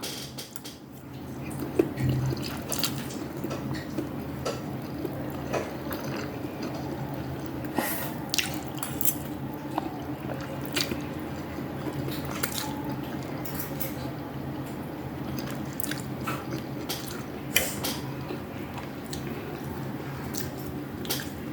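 Close-miked eating sounds: wet mouth clicks, smacks and squishes of chewing, coming irregularly a few times a second, over a steady low hum.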